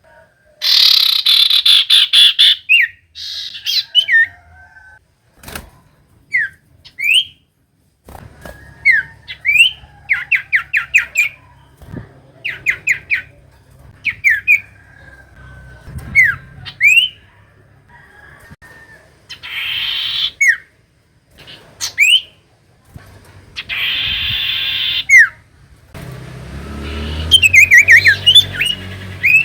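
Common iora calling over and over: short rising whistled notes, fast chattering trills and several harsh rasping bursts.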